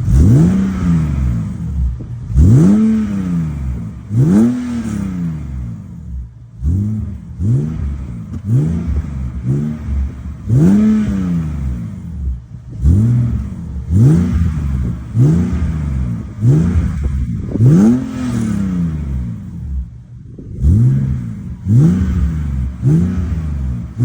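BMW E39 exhaust through its muffler as the engine is blipped over and over from idle. Each short rev rises and falls in pitch, about one every second or two, with the idle in between.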